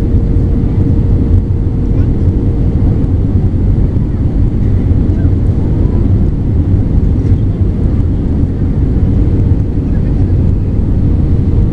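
Airbus A320 cabin noise in flight: the steady, loud low rush of airflow and the CFM56 turbofan engines heard from a window seat during descent. A faint steady hum fades out about a second in.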